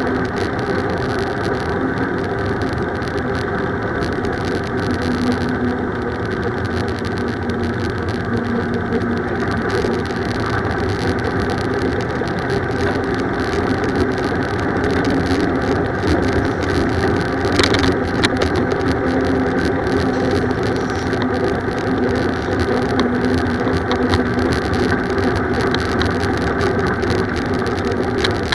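Steady road noise from riding a bicycle among traffic, with a couple of sharp clicks about two-thirds of the way in.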